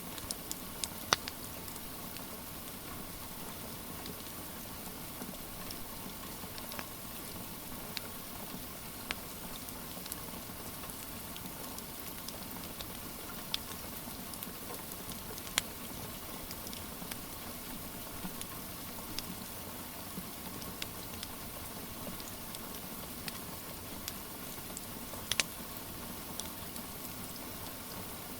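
Steady hiss of rain mixed with a wood fire, whose sharp crackles and pops come at scattered moments, a few of them louder, about a second in, midway and near the end.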